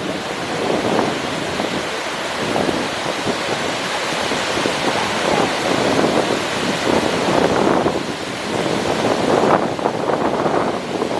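Athirappilly Falls' rushing water: a loud, steady wash of noise that swells and eases every second or two.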